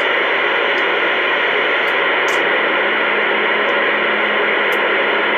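Two-way radio receiver putting out steady hiss of static with no voice coming through, from a loose coax antenna cable at the back of the radio. A faint low hum joins in about halfway through.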